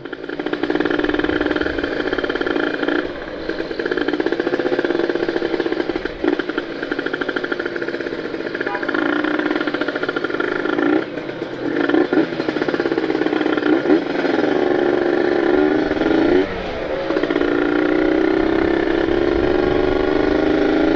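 Ported Kawasaki Ninja RR 150 single-cylinder two-stroke engine on the move. Its pitch climbs through the revs and drops back several times as it shifts gears, with a long rise near the end. It is held to low and middle revs while the newly built engine is run in.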